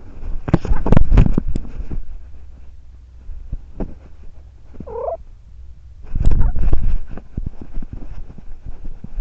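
Domestic cat purring, a steady low rumble, with loud rubbing and thumping movement noise in the first two seconds and again about six seconds in. A short, pitched call rises briefly about five seconds in.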